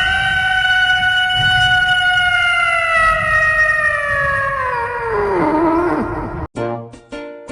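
One long drawn-out animal call, held at a steady pitch for about five seconds and then sliding down before it stops. Short plucked music notes start near the end.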